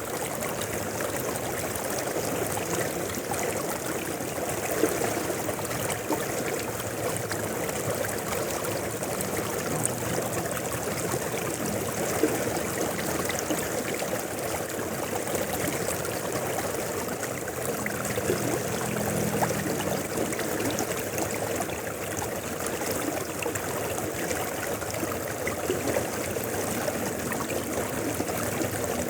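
Mountain river water flowing steadily over rocks, an even rushing with small trickles and splashes.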